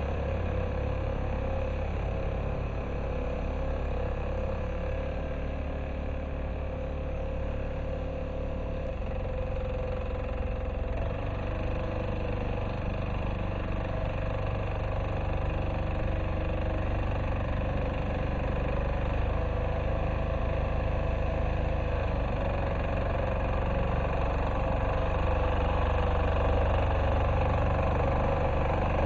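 Diesel engine of an MB-2 walk-behind tractor running steadily as it ploughs, getting a little louder near the end.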